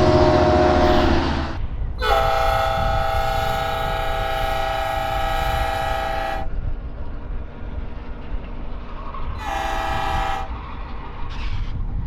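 Locomotive air horn sounding a chord: a long blast of about four seconds, then a short blast near the end, over a steady low rumble of a passing train.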